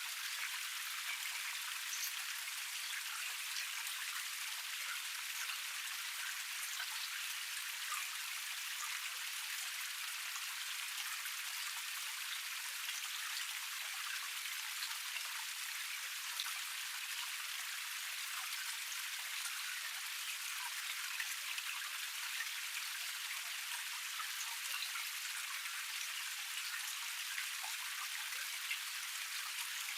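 Water spilling down a small cascade: a steady, even hiss, thick with little splashes and droplet patters, with no deep rumble.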